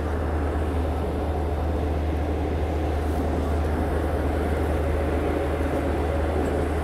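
Passenger train running along the line, heard from inside the coach: a steady low rumble with an even rushing noise.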